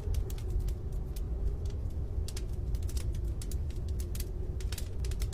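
Rain falling, with irregular sharp ticks of drops striking a hard surface over a steady low rumble.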